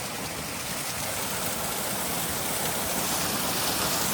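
Waterfall: a steady rush of falling water, slightly louder near the end.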